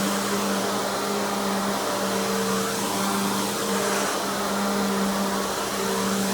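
Simplicity Symmetry Deluxe upright vacuum running steadily: a 12-amp single-stage motor giving a steady hum over a broad rush of air.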